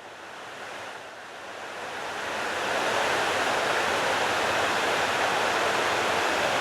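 Waterfall rushing, a steady wash of falling water that grows louder over the first few seconds and then holds steady.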